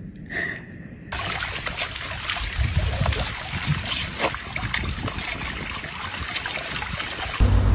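Running water with splashes, a steady hiss with small crackles that starts suddenly about a second in. Near the end it cuts abruptly to a low rumble.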